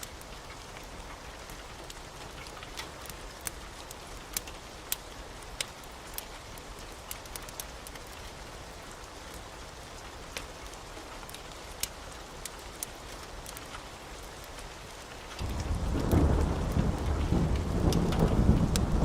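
Steady rain with scattered sharp pops. About fifteen seconds in, a loud low rumble of thunder suddenly rolls in and carries on.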